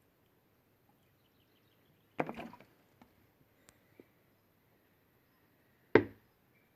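Two sharp knocks about four seconds apart, the first followed by a brief rattle, with a few faint clicks between.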